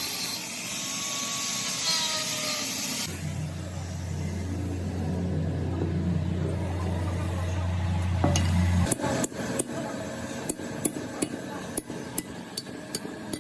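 Workshop sounds: a hiss for the first three seconds, then a machine motor humming steadily for about six seconds and stopping, then a run of sharp hammer taps on metal, two or three a second.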